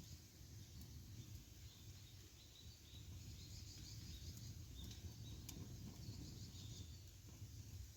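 Faint outdoor campfire ambience: a low steady rumble, scattered faint chirping, and a few soft crackles from the fire.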